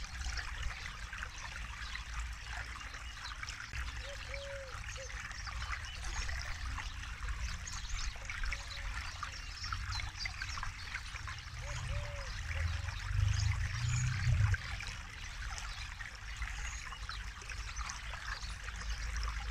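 Forest river flowing and trickling, a steady rushing hiss with a low rumble that swells for a couple of seconds past the middle.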